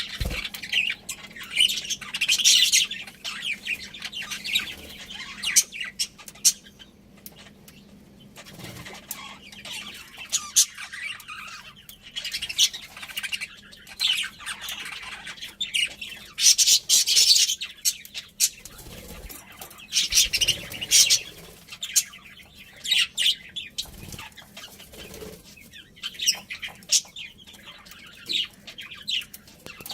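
Budgerigars chirping and chattering in short bursts every second or two, with many sharp clicks and light fluttering among them.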